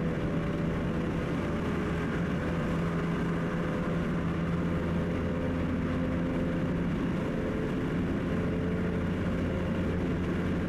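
Car driving on a highway, its engine humming steadily under a constant wash of road and tyre noise.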